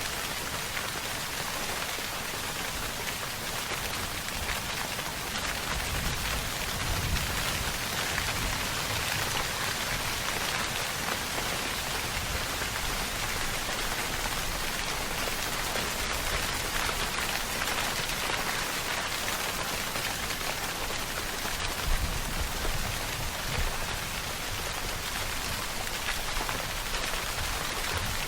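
Steady, dense rainfall: a continuous hiss of drops falling on surfaces. Twice a soft low rumble swells underneath it.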